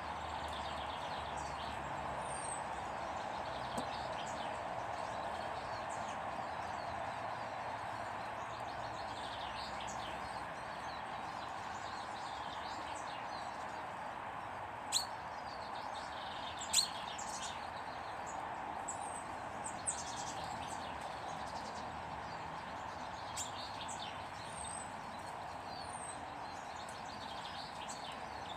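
Small birds chirping and calling in short high notes over a steady background rush, with a couple of sharp clicks about halfway through.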